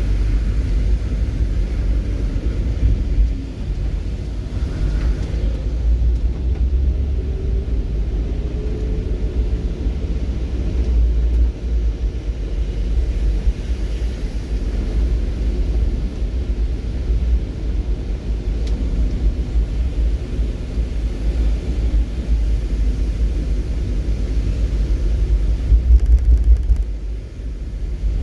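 A steady low rumble that wavers continuously, dipping briefly twice.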